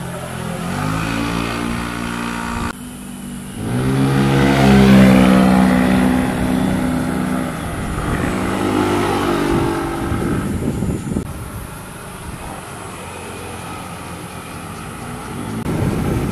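Engines of vehicles passing by one after another, revving as they go. The sound breaks off abruptly about three seconds in, then the loudest pass comes in with its pitch climbing.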